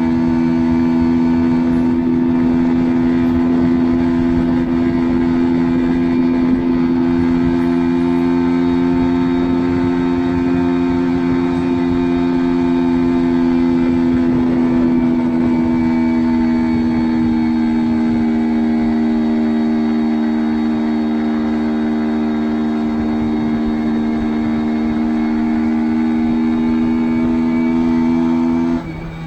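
Mash Fifty's 49.9cc single-cylinder overhead-cam four-stroke engine running at steady, high revs, its note holding almost constant and easing slightly lower in the second half. The note cuts off abruptly near the end.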